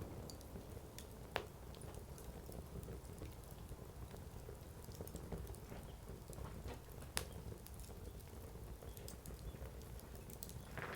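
Firewood burning in an open campfire, crackling with scattered small ticks and two sharp pops, one about a second and a half in and one about seven seconds in.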